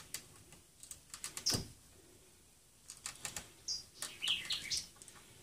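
A few short high bird chirps, the loudest about a second and a half in and a quick run between four and five seconds in, over scattered light clicks and taps of small metal parts being handled.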